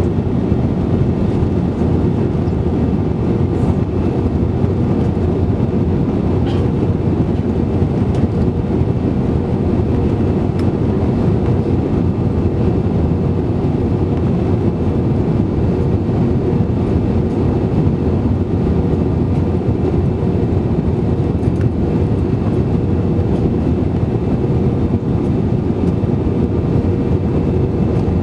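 Steady cabin noise of an Airbus A320-200 in flight: a loud, even rush of engine and airflow noise with a faint steady hum, unchanging throughout.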